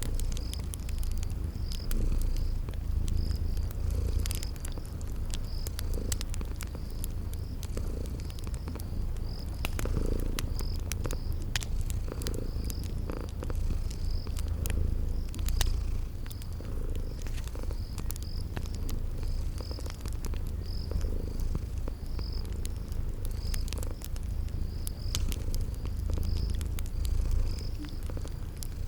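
A cat purring steadily, low and close, with a cricket chirping at an even rhythm and a wood fire crackling with scattered sharp pops.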